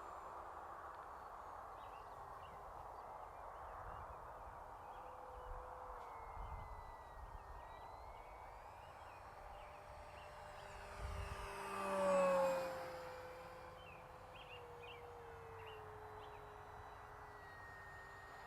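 Electric 4S-powered motor and propeller of an FMS Cessna 182 Skylane 1500mm RC plane in flight: a steady whine that swells loud as the plane passes close about twelve seconds in, its pitch falling as it goes by.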